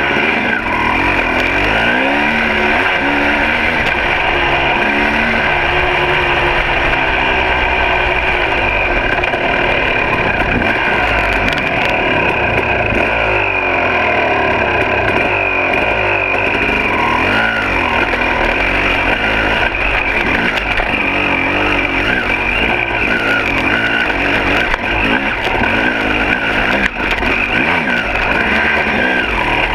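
2006 KTM 300 XC two-stroke dirt bike engine running under way, revving up and down over and over as the throttle is worked.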